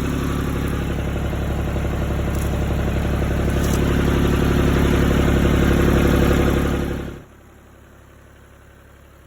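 Power King PK 500 tractor engine running steadily, swelling a little louder, then cutting off abruptly about seven seconds in.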